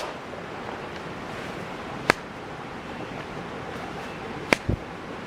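Wood campfire burning with a steady rushing hiss, with sharp pops from the burning wood about every two seconds and a dull thump near the end.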